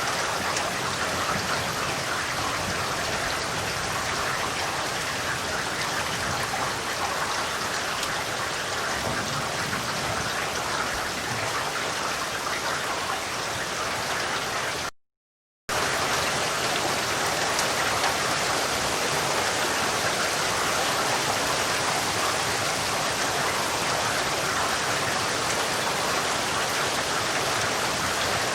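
Steady rain falling, an even hiss of drops. It cuts to dead silence for under a second about halfway through, then resumes.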